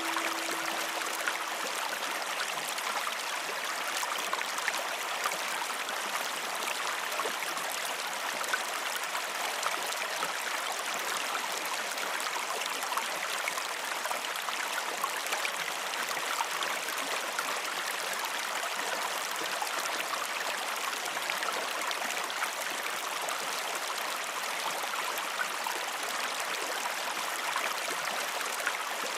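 Steady rushing and trickling of flowing water, like a small stream, with many small splashes and no change throughout.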